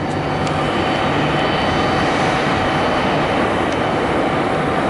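Jet engine noise from an Embraer E175 regional jet, whose twin GE CF34 turbofans make a steady whine over a wide rush. It grows slightly louder as the aircraft passes close.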